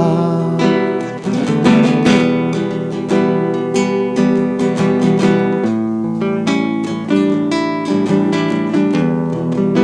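Acoustic guitar playing an instrumental passage of plucked and strummed chords, each note struck sharply and ringing on. A singing voice holds its last note into the first half-second.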